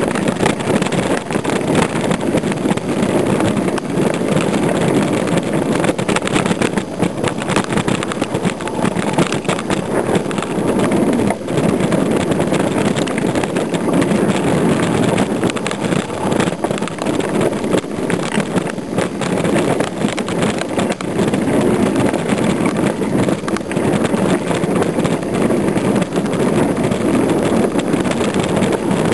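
Riding a mountain bike on a dirt trail: a loud, continuous rush of wind on the microphone, with constant small knocks and rattles from the bike over the rough ground.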